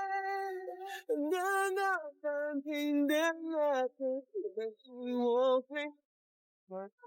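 Background music: a female voice singing a slow melody in long, wavering held notes, with a short break near the end.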